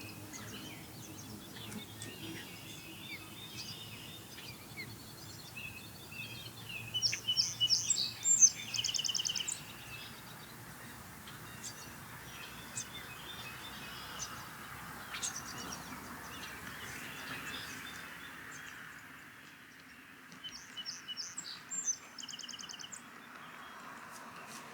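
Osprey calling in rapid series of high, whistled chirps, twice: once about a third of the way in and again near the end, over steady outdoor background noise.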